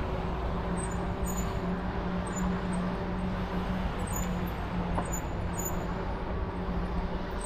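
Steady road and traffic noise heard while riding, with a continuous low hum under an even rumble and faint high chirps now and then.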